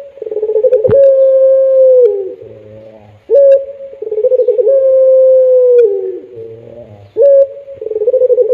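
Puter pelung dove cooing, the same long call repeated about every four seconds: a short opening note, a rolling stretch, then a long held note that drops in pitch at its end.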